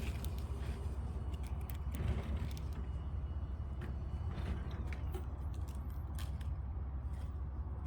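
Hörmann sectional garage door moving on its electric operator: a steady low motor hum with scattered light clicks and rattles from the panels and track.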